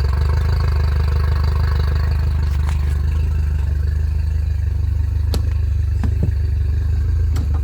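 Yamaha 50 hp four-stroke outboard running at idle in forward gear, a steady low drone, with a few sharp clicks over it.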